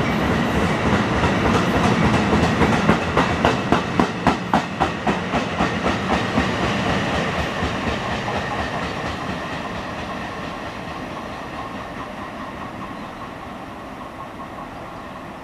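NJ Transit bi-level passenger cars rolling past as the train departs: steady wheel-on-rail rumble with a run of sharp clacks over the rail joints, about three a second, from roughly three to five seconds in. The sound then fades steadily as the cab car at the rear pulls away.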